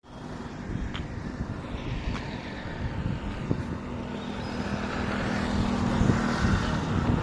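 Steady low engine or machine rumble with a faint hum, slowly growing louder, and a few faint knocks in the first few seconds.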